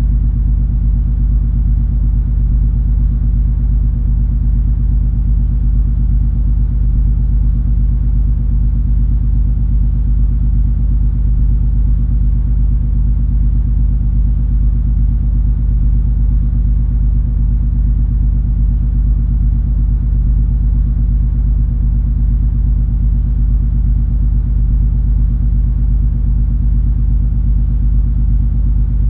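Steady deep rumble of the cruise ferry MS Color Fantasy under way, its engines and hull droning with a few constant low tones and no change in level.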